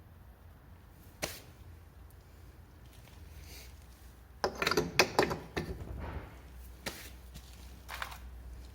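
Clicks and knocks of tools and parts being handled during a scooter repair: a sharp click about a second in, a quick flurry of knocks and clinks around the middle, then a couple more single clicks, over a low hum.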